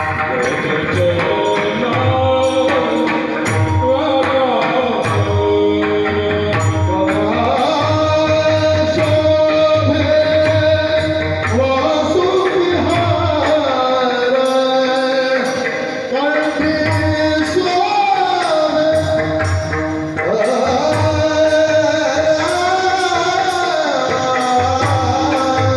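A man singing a devotional Marathi kirtan melody in long, gliding, ornamented phrases, over a hand drum and small hand cymbals keeping a steady beat.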